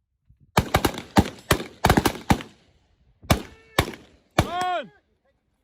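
Gunshots in a timed live-fire drill: about nine sharp cracks fired in quick succession over two seconds, then three more, spaced further apart. A brief tone with several pitches rings out after the last shot and falls away at the end.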